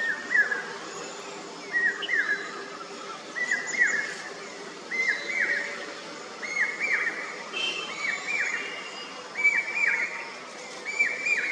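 A bird repeating a short two-note call about every second and a half, each note a quick falling whistle.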